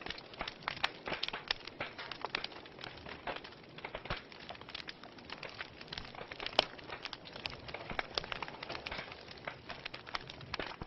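Fire in a fireplace crackling: irregular sharp snaps and pops over a soft steady hiss, with one louder pop about six and a half seconds in.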